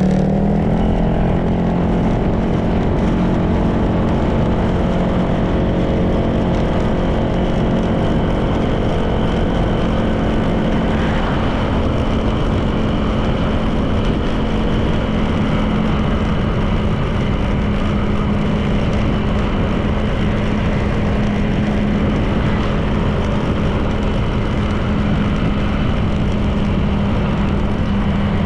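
Honda PCX 160 scooter's single-cylinder engine running at a steady cruise, its pitch rising a little at the start and then holding, with wind and road noise.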